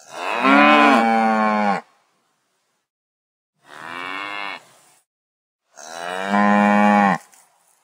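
Cattle mooing: three long moos, the first and last loud, a shorter, quieter one in between.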